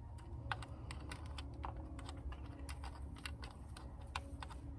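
Irregular light clicks and taps of a hand tool and metal bolts as valve cover bolts are worked loose, over a low steady hum.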